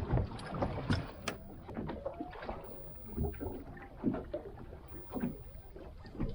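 Scattered short knocks and handling clatter aboard a small fishing boat, over a low steady rumble.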